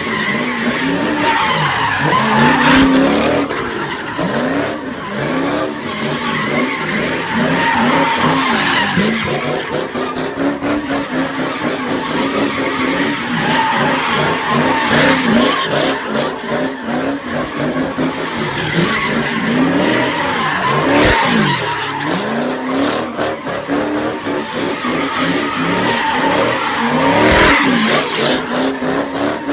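Car engine revving up and dropping back over and over, about once a second, with tyres skidding, as when a car is driven in slides.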